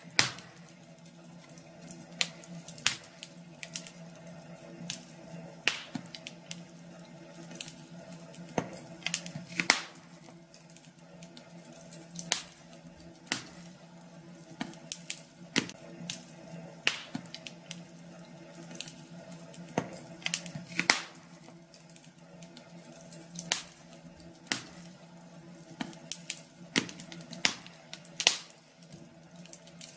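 Wood fire in a fireplace crackling: irregular sharp pops and snaps, a few each second, over a faint steady low hum.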